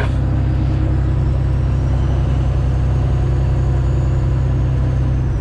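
Straight-piped Detroit Diesel Series 60 inline-six in a Freightliner Classic XL running steadily, a loud, even low drone from the exhaust.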